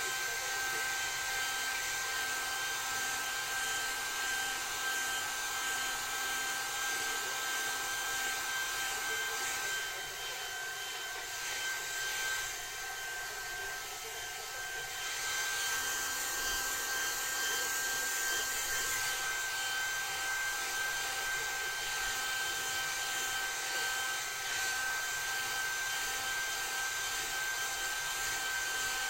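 Hand-held hair dryer blowing steadily: a rush of air with a constant high motor whine, turning briefly quieter and duller for a few seconds near the middle.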